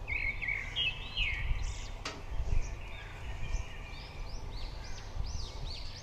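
Small birds chirping and twittering repeatedly in the background, over a low rumble, with one sharp knock about two seconds in.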